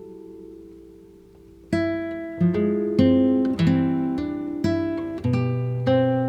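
Background music: acoustic guitar. A chord rings out and fades, then fresh plucked notes start about two seconds in and follow one another every half second or so.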